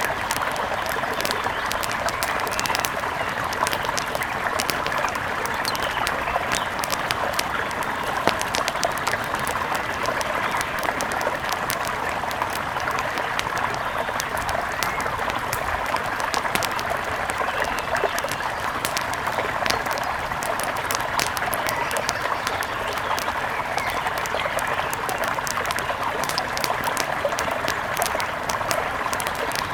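Wood fire crackling with frequent sharp pops, over the steady rush of a flowing river.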